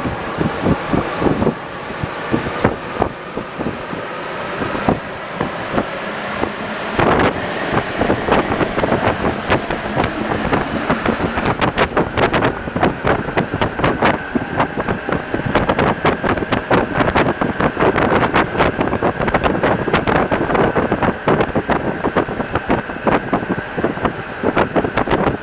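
Alstom NS-74 rubber-tyred metro train running, with a steady whine that settles at a higher pitch about halfway through and dense, rapid clicking and rattling that builds from about a quarter of the way in.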